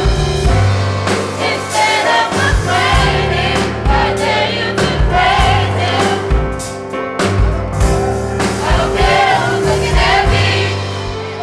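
Gospel choir singing with a band: sustained bass notes and drum hits under wavering voices, fading toward the end.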